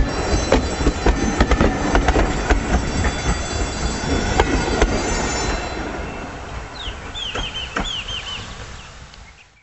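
Railway passenger coaches rolling past close by, wheels clacking over the rail joints with a high ringing from wheels and rails. The rumble fades after the last coach clears about five seconds in, and a bird chirps several times near the end.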